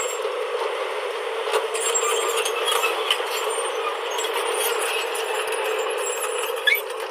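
JCB backhoe loader's diesel engine running steadily, with rattling and a sharp clank near the end.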